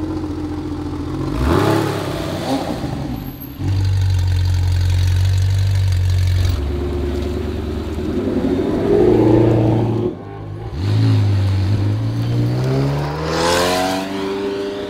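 Sports car engines pulling away one after another, cutting abruptly from car to car: a Porsche 911, a Ford Shelby GT350 Mustang and a McLaren 720S. Near the end one engine revs up, its note rising steadily for about three seconds.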